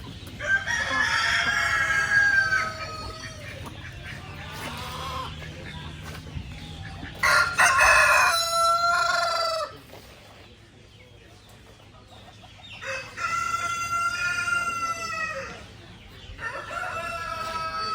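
Roosters crowing, four long crows one after another, spaced about four to six seconds apart.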